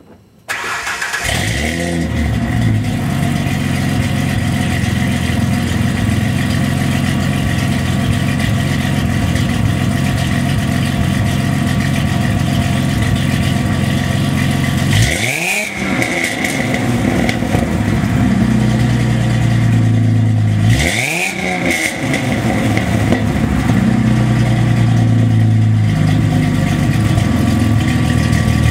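1993 Ford Thunderbird Super Coupe's supercharged 3.8-litre V6 starting up and idling through a 2.5-inch true dual cat-back exhaust with Flow Pro mufflers and no resonator. The revs are blipped twice, about halfway through and again some six seconds later, each a quick rise and fall. A steady high whine runs over the idle and rises with each blip.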